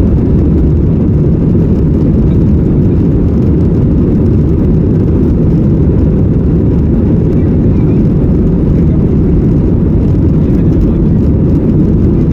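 Passenger airliner's engines and rushing air: a steady, loud low rumble that holds at one level.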